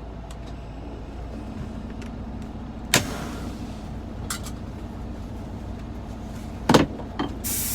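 Semi truck sitting with its engine idling in a low steady rumble. There is a sharp clack about three seconds in, two louder knocks near the end, then a sudden steady hiss of air or outside noise just before the end.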